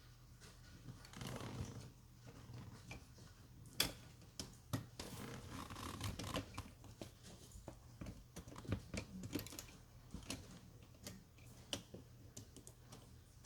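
Hand work on car parts: scattered sharp clicks and taps with short scrapes and rustles, irregular in timing, over a faint steady low hum.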